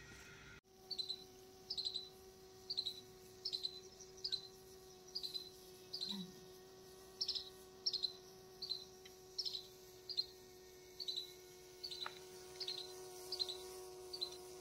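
A bird chirping one short high note over and over, about once every second, faint over a low steady hum.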